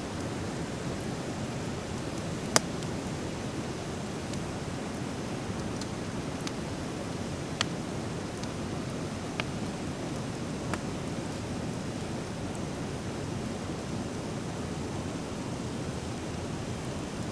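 Driftwood fire burning in an open fire pit: a steady low rush with scattered sharp crackling pops, the loudest about two and a half seconds in.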